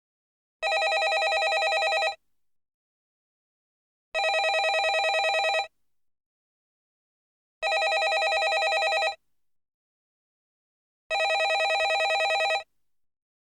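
Landline telephone ringing: four rings of about a second and a half each, repeating every three and a half seconds with silence between, each ring a fast, trilling ring.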